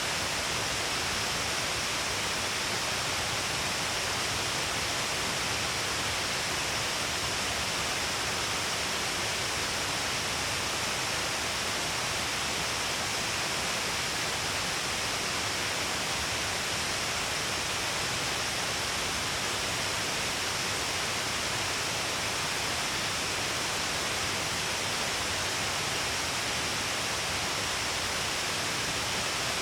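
Shiraito Falls, many strands of water pouring down a long cliff face: a steady, even rush of falling water and spray with no breaks or changes.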